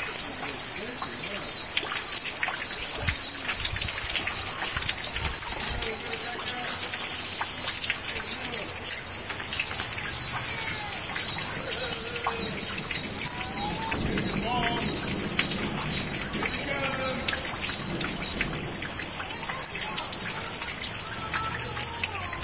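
Steady rain falling on floodwater: a dense, even spatter of drops.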